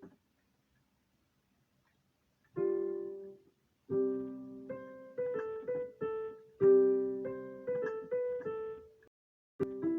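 Piano played slowly from the sheet at first sight. Silence for the first two and a half seconds, then a single chord. From about four seconds in a melody of single notes goes over held chords, with a short break near the end before the playing goes on.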